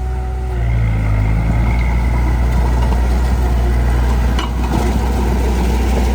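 Heavy machine's engine running steadily with a deep, even hum. There is one sharp knock about four and a half seconds in.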